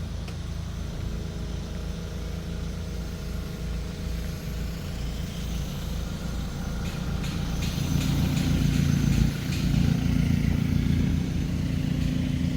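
Car engine running steadily as the car drives, growing louder about two-thirds of the way through.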